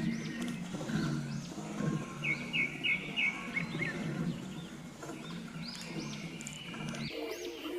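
Birds chirping, many short repeated calls overlapping, with a quick run of about five bright chirps a couple of seconds in. A low hum lies beneath and cuts off suddenly about seven seconds in.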